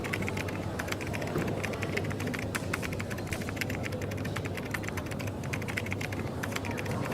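Quick, irregular clicking of typing on a keyboard over a steady low hum of café background noise.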